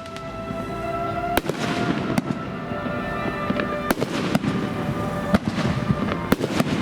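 Aerial fireworks bursting overhead: sharp bangs about every second, some close together, over a continuous crackle.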